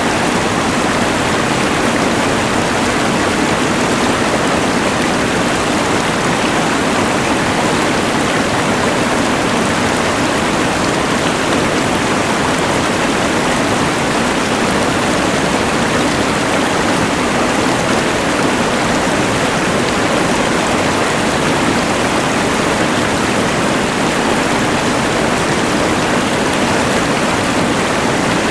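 Steady rushing of a mountain river blended with the even hiss of a LectroFan white noise machine, a constant wash of noise with no change.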